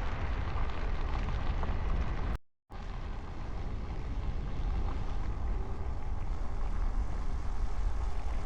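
Steady rushing of wind on the microphone with road noise from riding an e-bike, cut by a brief dropout to silence about two and a half seconds in.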